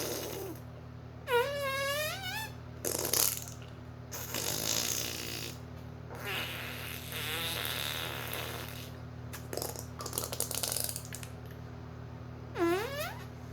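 A series of fart noises made with the mouth (lip or cheek raspberries): about six separate bursts of different lengths, some short and some drawn out, several with a buzzing pitch that wobbles and glides, the last ending in an upward squeak.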